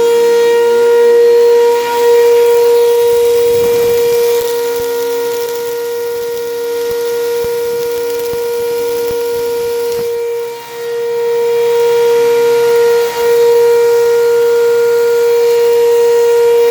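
Vacuum cleaner running steadily with a loud, high motor whine while vacuuming dirt out of carpet; the sound dips briefly twice in the second half.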